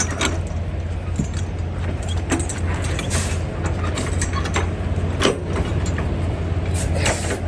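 Semi truck's diesel engine idling steadily, with scattered metallic clinks and clanks from the trailer being unhooked.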